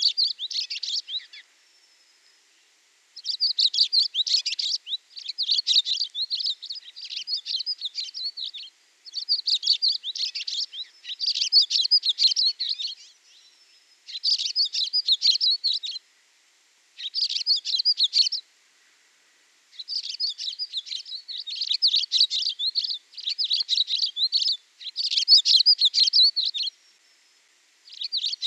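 A songbird singing: high, rapid twittering phrases of one to three seconds each, with short pauses between them.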